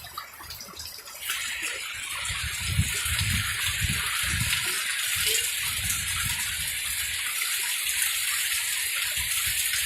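A steady rush of running water that starts suddenly about a second in, with some irregular low rumbling underneath.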